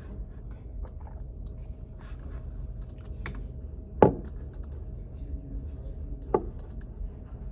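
Library room tone: a steady low hum with faint small clicks and taps like keyboard typing and writing, broken by two sharp knocks, the louder about four seconds in and a smaller one about two seconds later.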